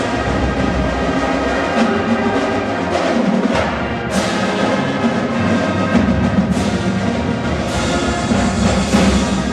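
High school marching band playing: sustained brass chords over drums, with a series of sharp accented hits through the passage.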